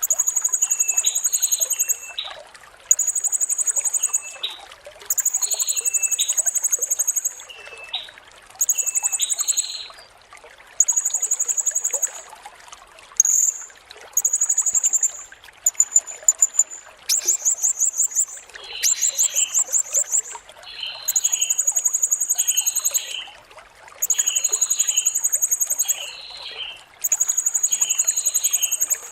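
Blue-crowned hanging parrot (serindit) repeating a very high, shrill, rapidly pulsing trill about a dozen times, each lasting about a second with short pauses between. Lower, shorter chirps sound between the trills.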